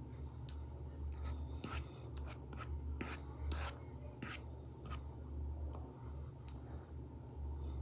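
Apple Pencil Pro tip stroking on an iPad fitted with a paper-like matte screen protector: a dozen or so short, scratchy strokes, irregularly spaced, over a steady low hum.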